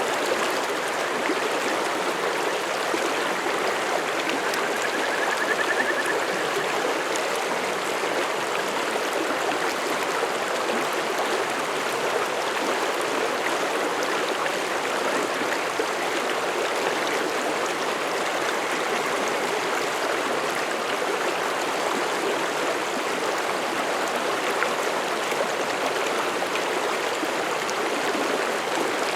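Mountain stream flowing through forest: a steady, unbroken rush and babble of running water.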